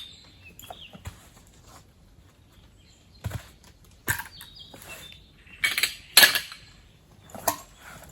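Camping gear being handled during setup: scattered knocks and clicks, with two louder rustling bursts a little past the middle. Birds chirp briefly at the start and again about halfway.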